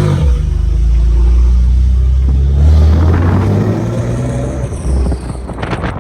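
A car engine running loud with a deep exhaust rumble, pulling harder through the middle, then stopping suddenly at the end.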